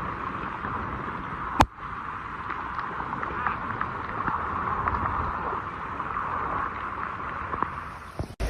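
A steady rush of water, with a single sharp click about one and a half seconds in; it breaks off abruptly near the end.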